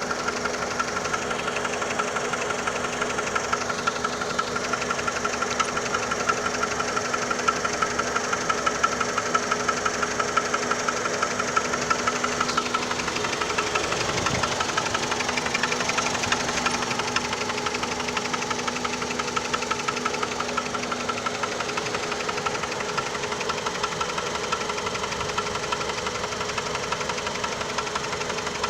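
2002 Chrysler PT Cruiser engine running steadily with a rapid, even knocking, a knock whose cause the owner does not know.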